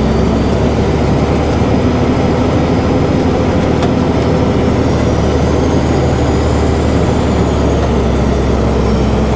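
Loaded dump truck's engine running steadily with a low rumble as it drives along.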